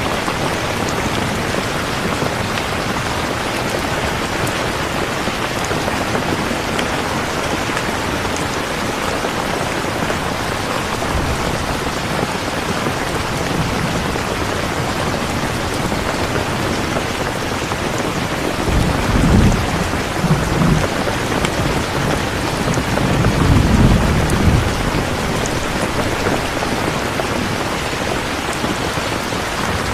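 Steady heavy rainfall. Low thunder rumbles about two-thirds of the way in and again a few seconds later.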